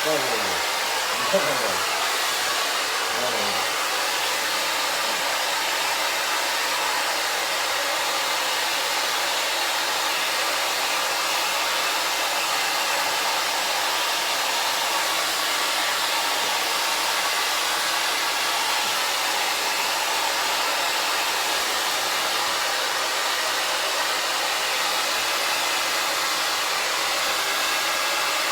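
Handheld hair dryer blowing steadily as it dries a small dog's coat after a bath, with a few faint falling tones in the first few seconds.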